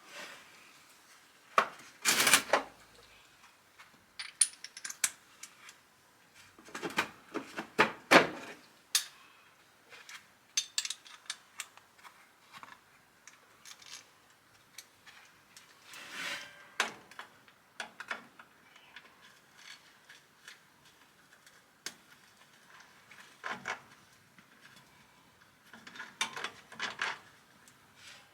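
Metal tools and parts clinking and clanking in scattered bursts, loudest about two seconds in and again around eight seconds, during work on a truck's transmission pan and filter.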